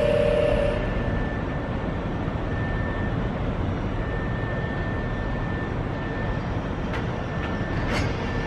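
Senboku 12000 series electric train moving off over the station tracks: an even rumble of the train and its surroundings, with a steady two-note tone that cuts off just under a second in and a few sharp clicks near the end.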